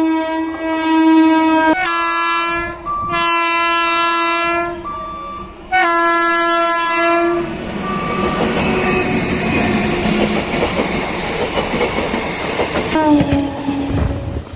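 Indian Railways train horn sounding about four long multi-tone blasts, followed by the steady noise of the train running past and a short horn blast near the end.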